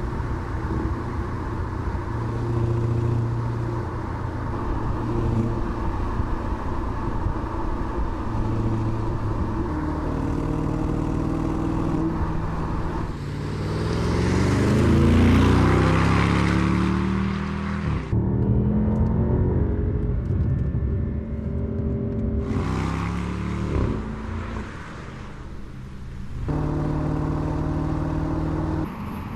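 2024 Mercedes-AMG GT 63's 4.0-litre V8 running and revving through its exhaust, in several short joined clips. Around the middle it accelerates hard, the pitch climbing and dropping back with a series of quick upshifts.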